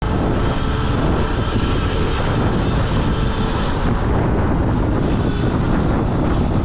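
Steady wind rush on the microphone from riding a Sur-Ron electric dirt bike over snowy, icy road, with the ride noise underneath.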